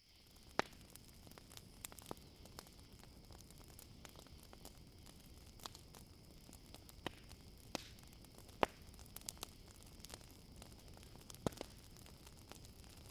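Campfire crackling, with irregular sharp pops of burning wood over a steady high chirring of crickets. The loudest pop comes about two thirds of the way through.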